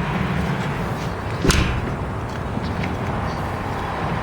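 Steady low rumble with a single sharp knock about one and a half seconds in.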